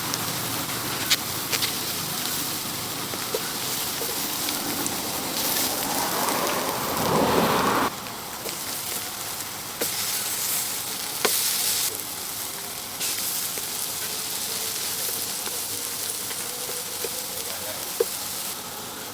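Chicken sizzling over a charcoal grill: a steady hiss with a few light clicks, and a louder rushing swell about six to eight seconds in.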